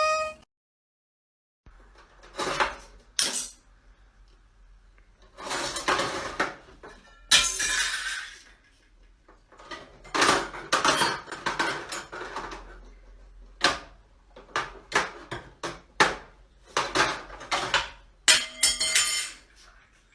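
A series of sudden crashes and clatters of hard objects, coming in separate bursts every second or two, some with a brief ringing.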